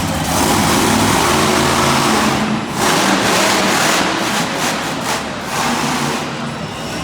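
Monster truck engine revving loudly, its pitch rising and falling as the truck is driven through a wheelie run.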